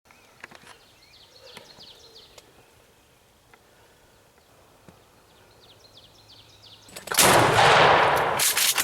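Songbirds chirping faintly, then about seven seconds in a sudden loud shotgun shot whose noise carries on for more than a second.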